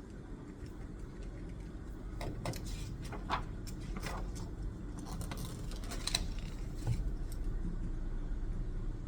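A run of short rustling and scratching sounds, bunched between about two and seven seconds in, from paper and pen being handled at a study desk, over a steady low rumble.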